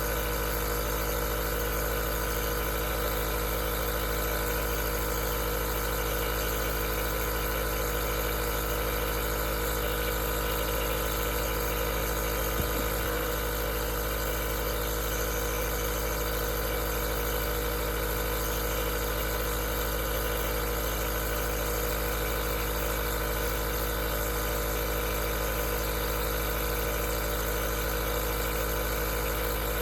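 Aerosol nebulizer running steadily: an even motor hum made of many steady tones over a constant hiss of air. There is one brief click about 13 seconds in.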